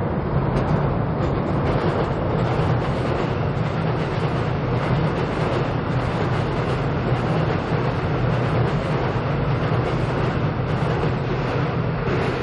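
Seoul Subway Line 7 train running across Cheongdam Bridge, heard from underneath the deck: a loud, steady rumble of wheels on the rails.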